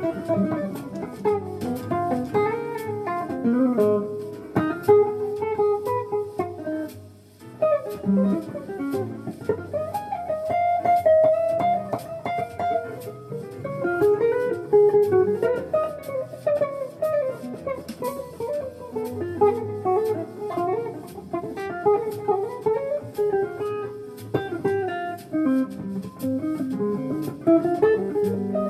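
Guitar playing jazz: a busy line of quick plucked notes, with a brief drop-out about seven seconds in.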